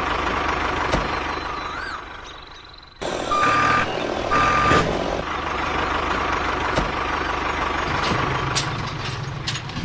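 Vehicle engine running steadily, with two reversing beeps about a second apart.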